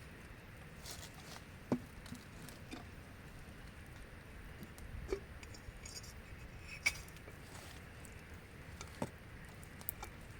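Light rain pattering as a steady faint hiss, with a handful of separate heavier drops or taps landing at irregular moments.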